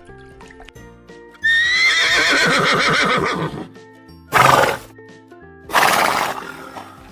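A horse whinnies: one loud quavering neigh of about two seconds, followed by two short, noisy blasts. Background music plays underneath.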